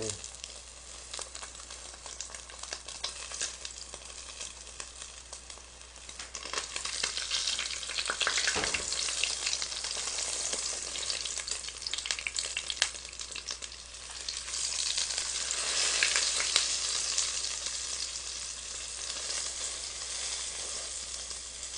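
Egg-battered pollock fillets (dongtae-jeon) frying in oil in a pot: a steady sizzle with scattered clicks. It grows louder about six seconds in and again around fifteen seconds, with one duller knock near the middle.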